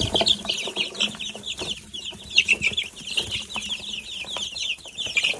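Baby chicks peeping nonstop: many short, high, falling chirps overlapping one another, with a few faint knocks among them.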